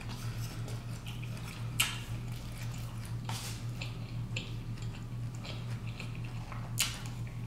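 Close-up mouth sounds of a person eating: chewing and lip-smacking with scattered wet clicks. Two sharper clicks stand out, about two seconds in and near the end, over a steady low hum.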